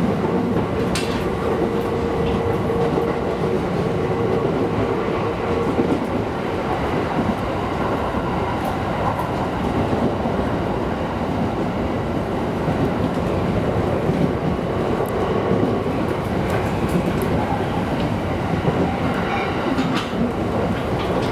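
Running noise of an E231 series electric commuter train heard inside a passenger car: a steady rumble of wheels on rails with a few sharp clacks, likely at rail joints. A steady tone runs underneath and stops about six seconds in.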